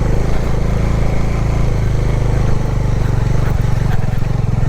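Motorcycle engine running steadily, a low hum with a fast, even firing pulse.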